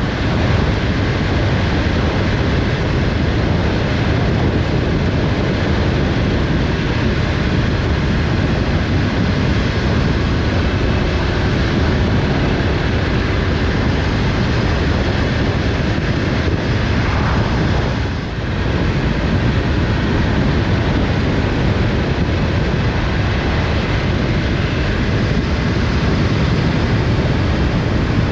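Motorcycle riding at speed: a steady rush of wind over the rider's microphone mixed with engine and road noise, dipping briefly about eighteen seconds in.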